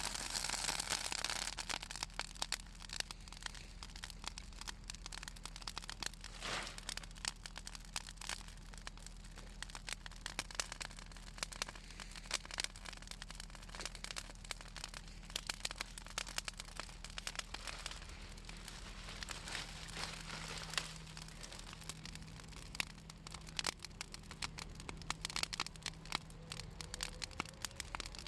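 Bonfire of pruned southern magnolia branches crackling and popping in a dense, continuous run of snaps, the oil in the wood making it crackle. A louder hiss comes at the start and again about six seconds in.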